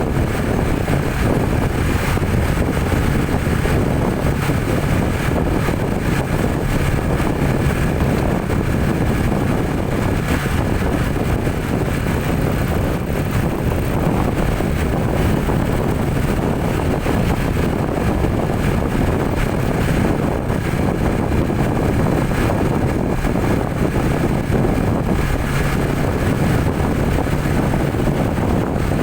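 Steady engine and road noise of a vehicle driving along, with a faint low hum and no change in pace.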